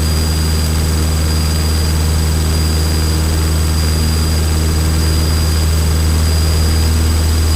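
Single-engine Cessna trainer's piston engine and propeller droning steadily, heard from inside the cockpit.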